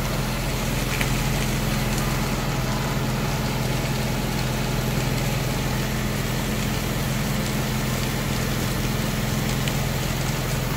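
Fire engine's motor running at a steady, unchanging speed, a constant low hum with a noisy hiss over it.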